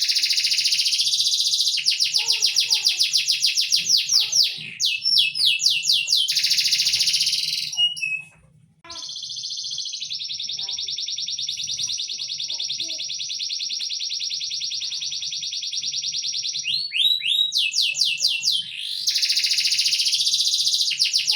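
A songbird singing rapid, high trills of quickly repeated notes, with a short pause partway through and then one long unbroken trill lasting about eight seconds before the quick bursts start again.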